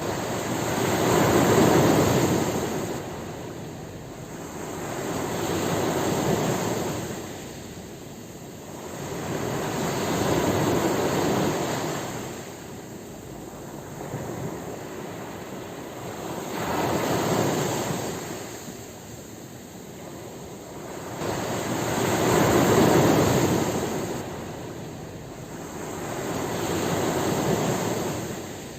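Ocean waves breaking on a shore, the surf swelling and washing out in a slow rhythm, one wave about every five seconds.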